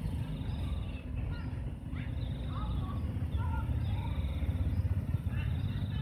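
Small birds giving short scattered chirps, alongside a high buzzy trill that repeats about every second. Both sit over a steady low rumble.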